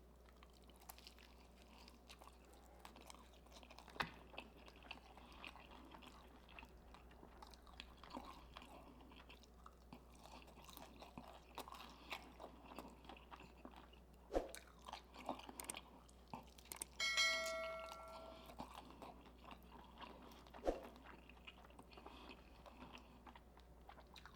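Chewing and biting of KFC Original Recipe fried chicken, with scattered small crunches and mouth clicks. About seventeen seconds in, a short bell-like ding rings for about a second and a half.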